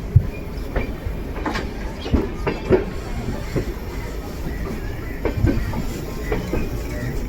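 Amrit Bharat Express train running, with irregular clanks and knocks of wheels and couplings over a steady low rumble.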